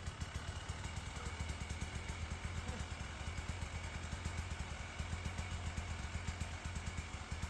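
Dirt bike engine idling steadily: a low, even running sound with a regular pulsing beat and no revs.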